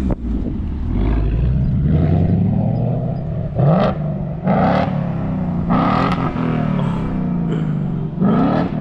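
Car engine revving several times as the car pulls away, each rev a short rising surge over a steady running note. The exhaust is loud but still a little quiet by the owner's standard.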